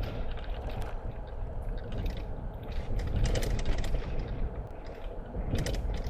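Car driving slowly over a rough unsealed road, heard from inside: a low rumble with the crunch of tyres on gravel and irregular rattles and knocks.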